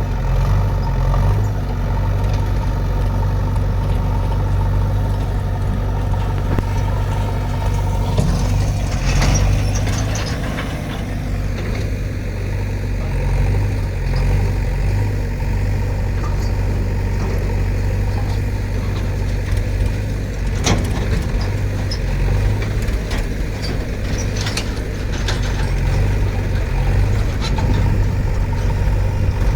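Heavy diesel engine running steadily with a low drone, with a stretch of rushing noise about eight seconds in and a few sharp clicks later on.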